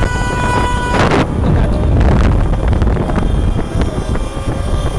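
A car horn held for about a second, then loud street noise with engines and wind buffeting the microphone, with a few sharp cracks.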